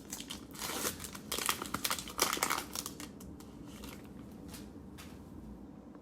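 Crinkling of a cellophane trading-card pack wrapper being handled, in a burst of crackles lasting about two and a half seconds, then dying down to faint handling noise.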